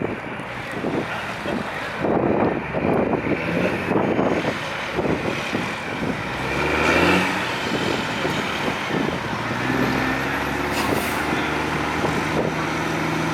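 Pulling truck's engine rumbling unevenly, revving up briefly about six to seven seconds in, then settling into a steady idle.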